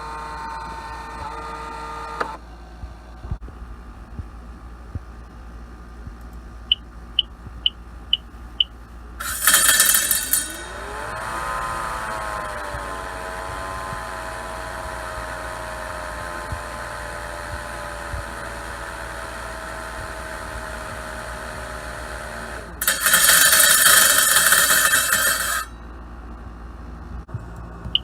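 Husqvarna Automower 430X robotic mower's blade motor spinning up with a rising whine, then running steadily as the whine slowly drifts lower, with no added noise now that the cutter housing has been adjusted. It is preceded by a few short electronic beeps, and two loud bursts of rushing noise come before and after the run.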